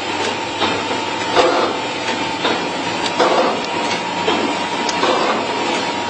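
Vertical form-fill-seal liquid packing machine running, with a repeating clack about once a second over steady machine noise and a thin steady whine.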